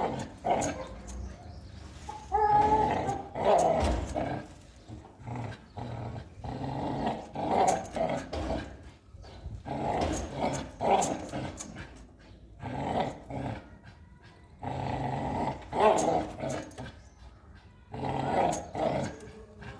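American Pit Bull Terrier growling in irregular bursts of a second or two, with short pauses between them.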